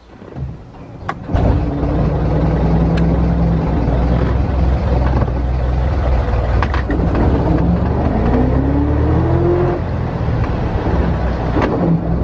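1924 Dodge Brothers tourer's four-cylinder engine running, coming in loud and steady about a second in after a couple of clicks, with a rising whine about two-thirds of the way through as it picks up speed.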